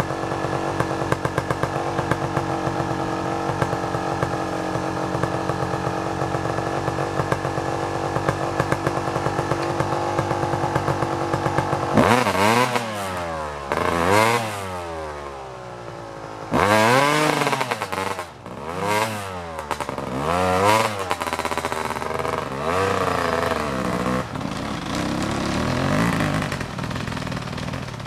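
Kawasaki KX 250's two-stroke single-cylinder engine running steadily for about twelve seconds, then revved up and down repeatedly, its pitch rising and falling half a dozen times, as the dirt bike strains to drag logs.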